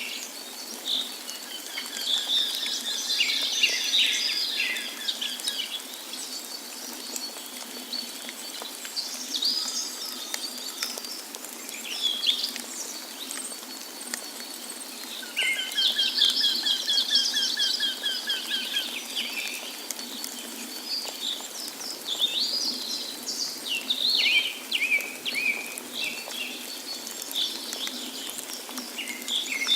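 Several songbirds singing, with chirps and quick trills throughout and a long rapid trill about halfway through, over a steady rush of water.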